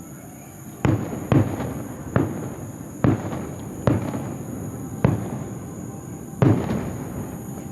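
Fireworks shells bursting, about seven sharp booms at uneven intervals, each trailing off in a rolling rumble.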